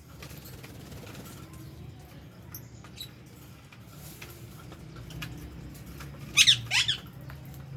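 Two sharp, high chirps from a small parrot a little over six seconds in, over a low steady hum and faint scattered clicks.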